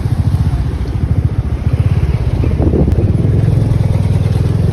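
Motorcycle engine running on the move, a steady low rumble.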